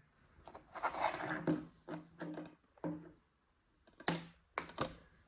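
Plastic Blu-ray case being handled, with a series of short rustling and scraping sounds and a couple of sharp clicks about four seconds in.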